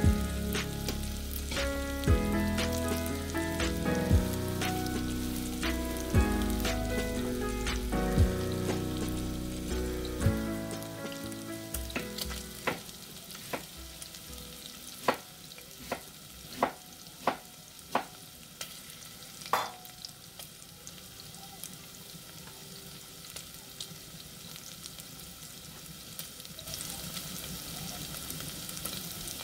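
Pork pieces and carrots frying in a pot, a steady sizzle throughout. Background music with a beat plays over roughly the first third and fades out, and a run of sharp clicks comes in the middle.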